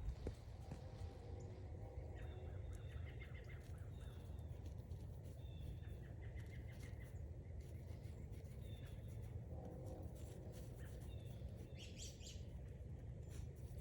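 Birds calling in woodland: short high calls repeated every second or two, with a lower series of calls about half a second in and again about ten seconds in, over a steady low rumble.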